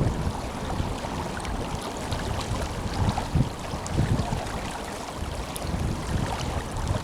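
Tenryū River flowing strongly: a steady rush of moving water, with irregular low rumbles of wind buffeting the microphone.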